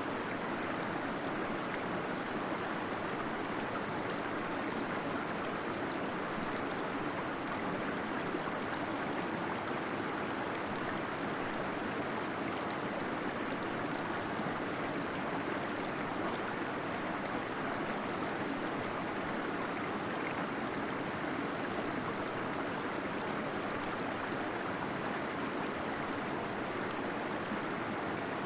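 Small waterfall in a cave, water pouring and splashing in an even, unbroken rush.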